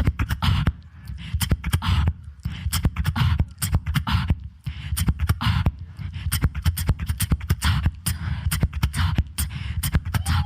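Solo human beatboxing: a fast, steady rhythm of deep kick-drum bass and sharp snare and hi-hat clicks made with the mouth.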